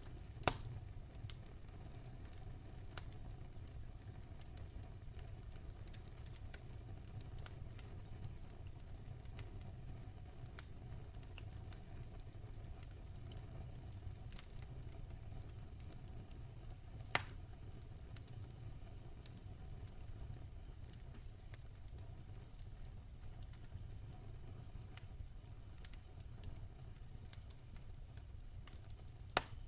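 Campfire burning and crackling: a steady low rumble under scattered small crackles. Three sharp pops stand out, one about half a second in, one midway and one near the end.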